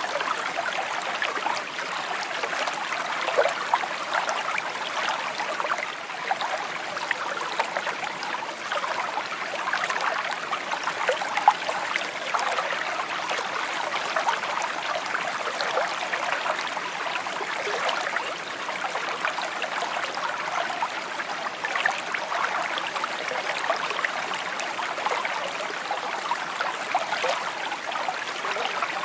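Shallow stream babbling and trickling over stones, a steady flow of small bubbling splashes.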